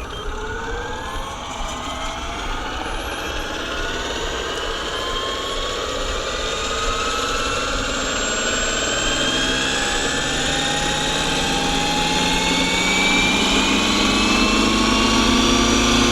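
Electric RC helicopter built on Align T-Rex 550e mechanics stretched to 600 size, spooling up from rest. The motor and gear whine and the rotor rise steadily in pitch and grow louder throughout.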